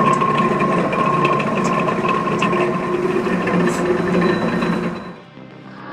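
Custom-built wood chipper with a 4.5 kW electric motor at 3,000 rpm, running steadily with a constant hum and whine and faint ticking from the mechanism. It fades out about five seconds in.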